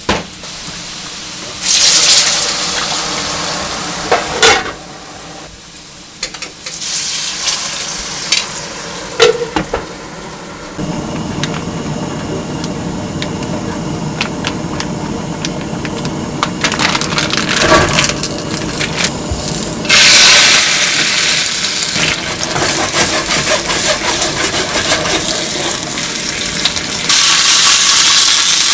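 Kitchen cooking sounds: food sizzling in a pan, with knocks and taps of utensils. The sizzle jumps abruptly in loudness and character several times.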